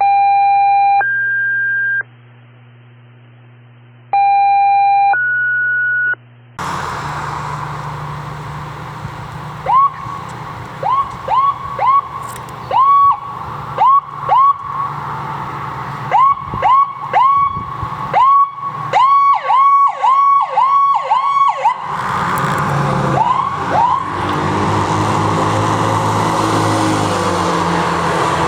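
Two rounds of steady two-tone dispatch alert tones, each a held pitch followed by a higher one. Then fire-apparatus warning sirens give many short chirps, each rising quickly to a held pitch, over road and engine noise. Near the end the chirps stop and a vehicle engine accelerates.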